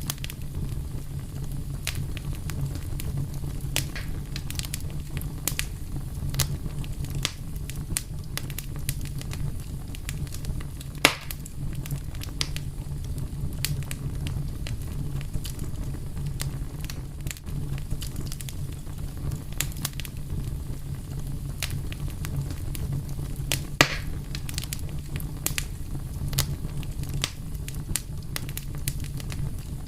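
Wood fire burning steadily: a low rumble of flames with irregular crackles and snaps, and two louder pops about 11 and 24 seconds in.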